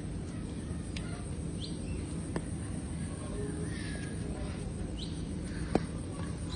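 Two short, high, rising chirps like a small bird's call, about one and a half seconds in and again near five seconds, over a steady low background hum, with a few faint clicks.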